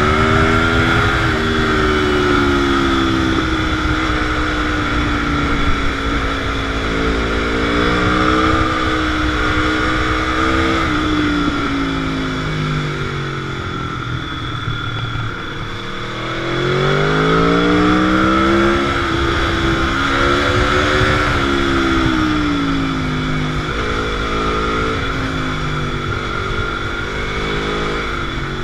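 Sport motorcycle engine under way, revs repeatedly rising and falling through the gears, with a dip off the throttle about halfway through before a hard pull back up, over steady wind rush.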